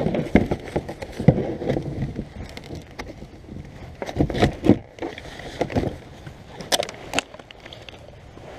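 Kayak and paddle being handled: irregular hollow knocks and bumps against the plastic hull, the loudest about a second in and again around four and a half seconds in.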